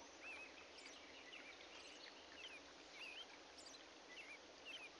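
Faint birdsong over a soft hiss: small birds calling in short, wavy whistles and thin high chirps, one every half second to a second.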